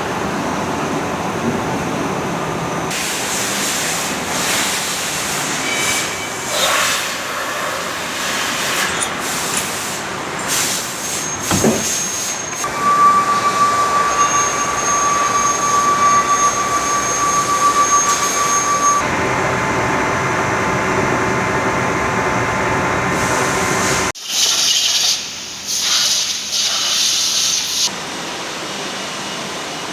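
Factory machining noise: machine tools running with a continuous hiss and scraping, a steady high whine for several seconds in the middle, and the sound changing abruptly a few times between shots.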